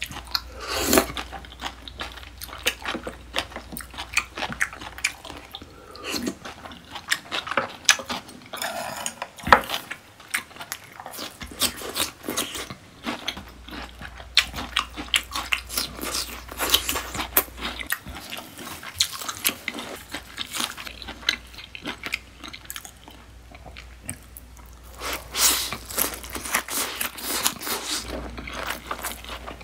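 Close-miked chewing and biting, full of crisp crunches: mouthfuls of sushi and of sweet Korean pear slices.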